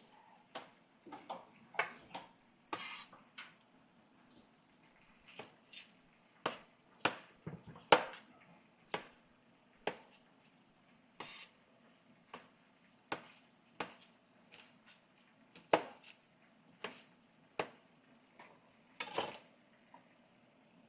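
Kitchen dishes and utensils being handled: irregular clinks and knocks, a couple of dozen sharp taps spread out, the loudest about eight seconds in. A faint steady hum runs underneath.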